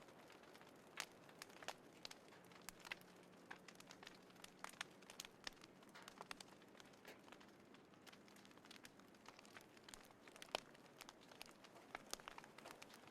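Small wood fire crackling faintly, with irregular sharp snaps and one louder pop about ten and a half seconds in.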